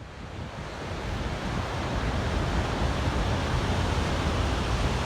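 Steady outdoor rushing noise with a fluttering low rumble, fading in over the first second or two after silence.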